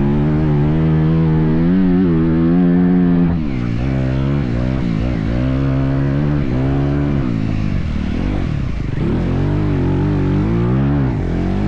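Motocross bike engine revving hard. It holds a high note for about three seconds, then surges up and down repeatedly as the throttle is opened and closed.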